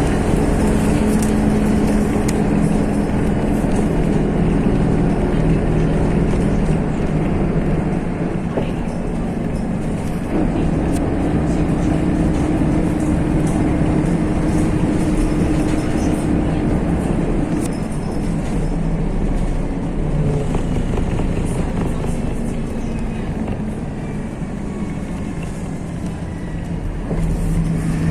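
MAZ-103.060 city bus in motion, heard from the passenger cabin: a steady drone of engine and road noise. The engine note rises about a third of the way in and falls back later. There is a quieter lull near the end before the bus picks up again.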